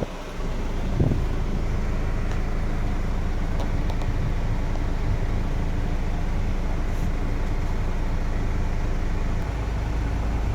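2004 GMC box truck's air-conditioning blower fan running steadily while the truck's engine idles underneath, with a short knock about a second in.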